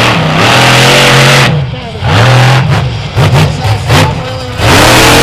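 Monster truck engine revving hard: held high for over a second, then dropping and blipped up and down several times, before holding high again near the end.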